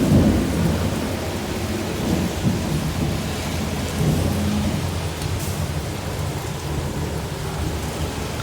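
Heavy rain pouring steadily, under a continuous low rumble that swells right at the start.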